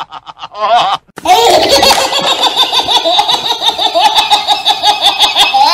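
High-pitched laughter sound effect: a short giggle, a brief break about a second in, then a long run of quick rhythmic ha-ha pulses.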